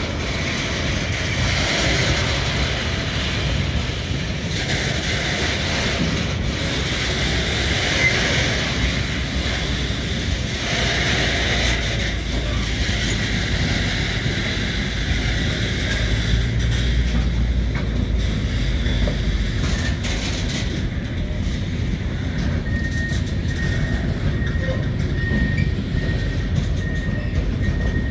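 Container freight train wagons rolling steadily past, a continuous low rumble with wheel-on-rail noise. A faint, broken high tone comes in near the end.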